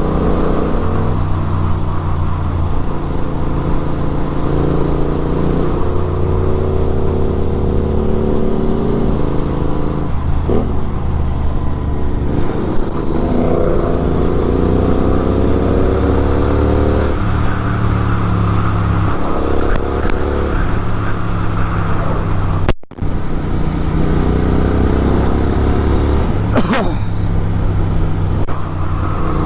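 Superbike engine running on the move, its pitch climbing and dropping back again and again as the rider accelerates and eases off.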